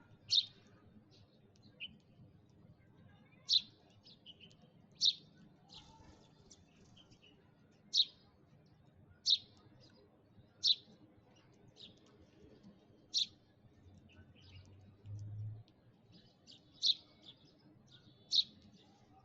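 A sparrow chirping: single short, sharp chirps repeated about every one and a half seconds, with a brief pause about two thirds of the way through.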